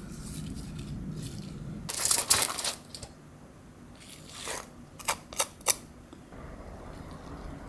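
Kitchen handling noises: a short burst of crackling about two seconds in, then three quick sharp clicks a little past halfway.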